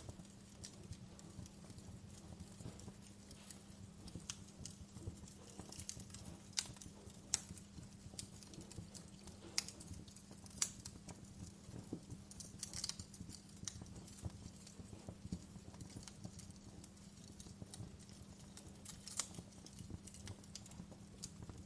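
Wood fire crackling in a fireplace: irregular sharp pops and snaps, a handful of them louder, over a low steady rumble.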